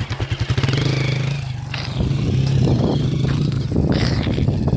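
Honda CRF230 dirt bike's single-cylinder four-stroke engine running steadily, with a couple of sharp clattering knocks about two and four seconds in.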